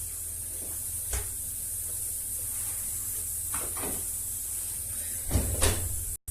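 A few light knocks and clatters from kitchen items being handled, over a steady hiss. The loudest pair comes near the end, just before the sound cuts off abruptly.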